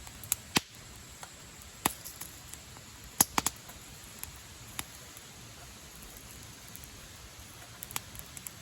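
Wood fire crackling: sharp, irregular pops and snaps of burning wood over a steady low hiss, the loudest a few in the first three and a half seconds.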